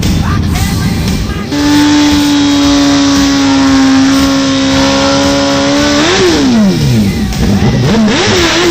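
Racing motorcycle engine held at a steady high rev for several seconds, then rising briefly before its pitch drops away steeply. More falling engine notes follow near the end.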